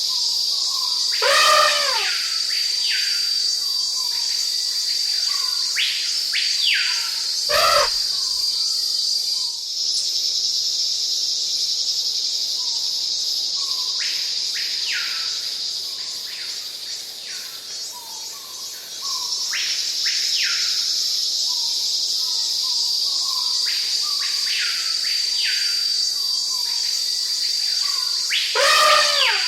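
Tropical forest ambience: a steady, high-pitched insect drone with many short, repeated bird calls beneath it. Three louder sweeping calls come about a second in, near eight seconds and just before the end. The insect drone fades briefly a little past the middle and then comes back.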